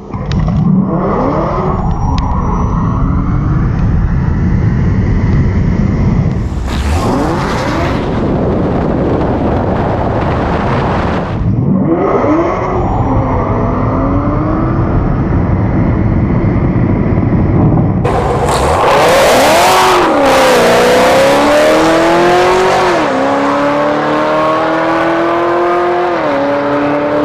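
Modified Cadillac CTS-V's V8 at full throttle down a drag strip. The engine note climbs and then drops sharply at each upshift, and the run is heard several times over.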